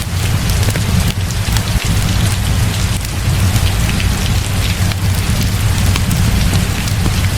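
Heavy rain falling steadily, with a deep low rumble underneath and scattered sharp ticks through the downpour.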